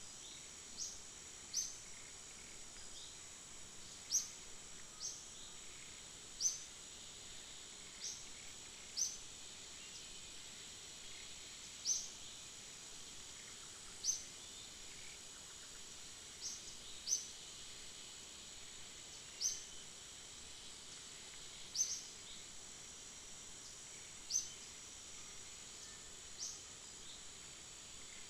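A small bird chirping: short, high, falling notes repeated every second or two, over a steady high-pitched insect drone.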